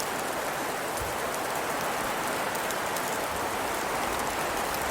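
A steady, even hiss with a fine crackling patter, like rain falling on a surface.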